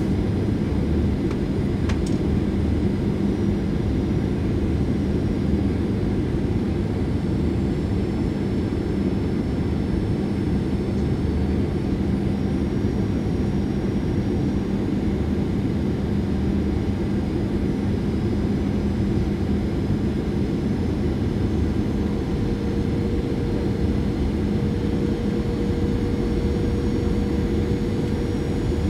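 Steady cabin noise inside a Boeing 737-800 in flight: airflow rush and the hum of its CFM56 jet engines, with a higher hum joining about three quarters of the way through.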